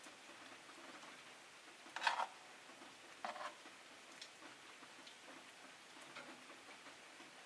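Rosy-faced lovebirds moving about in their cage: faint small ticks and clicks, with two brief louder sounds about two and three seconds in.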